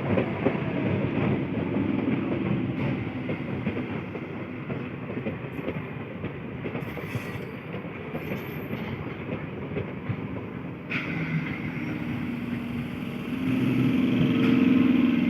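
Electric multiple unit local train running on the track, its wheels clattering steadily over the rail joints. The sound grows louder toward the end.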